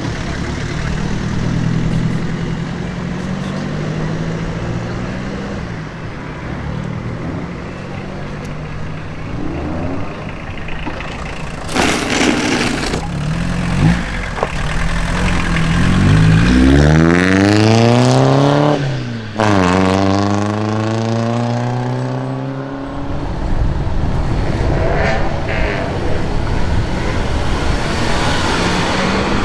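Modified car engines leaving a car show: low engine running, a short loud blast about 12 s in, then one car accelerating hard with its engine pitch climbing steeply, dropping suddenly at a gear change and climbing again before it fades into a steady rush of noise.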